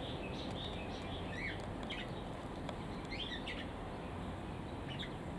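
Small birds in a mixed aviary chirping: short, scattered calls, a few of them sliding up or down in pitch, over a steady low background noise.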